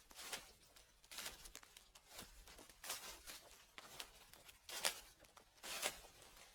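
Footsteps crunching through dry fallen leaves: slow, steady steps, roughly one a second, each a crisp crackle.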